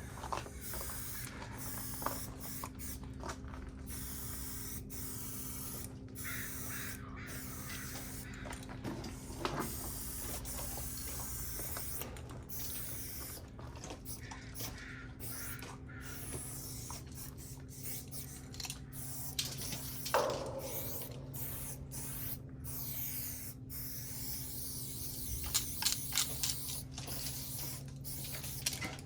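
Aerosol spray paint cans spraying in a run of bursts that start and stop with short pauses, with a few sharp knocks among them. A steady low hum runs underneath.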